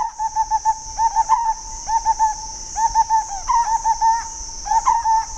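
Bird calls in quick series of short, arching whistled notes, several a second, with a steady high insect drone behind.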